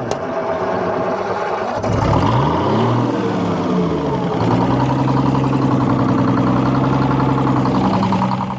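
An engine revving up about two seconds in, its pitch rising and dipping, then running steadily at speed until it cuts off abruptly at the end.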